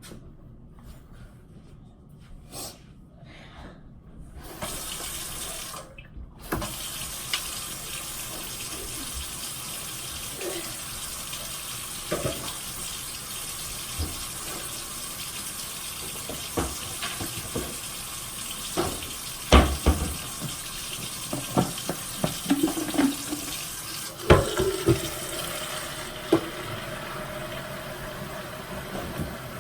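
Water running from a tap into a BAYKA humidifier's plastic water tank to fill it. The tap comes on about four or five seconds in and runs steadily, with occasional knocks of the plastic being handled.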